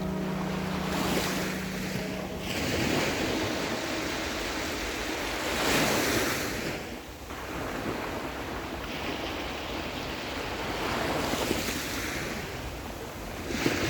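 Mediterranean surf: waves breaking and washing on a sand-and-pebble shore, swelling and falling back every few seconds.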